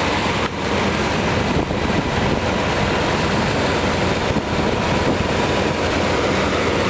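Wind buffeting the microphone in a steady rush, over the 1990 Chevrolet Suburban's 5.7-litre V8 idling underneath.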